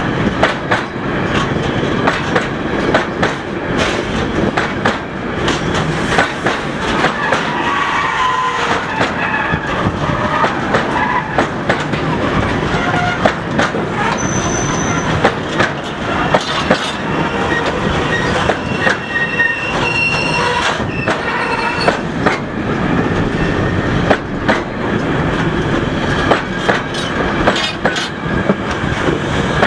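Loaded container flat wagons of a freight train rolling slowly past, their wheels clattering over rail joints in a steady stream of clicks. Brief high-pitched wheel squeals come in around the middle.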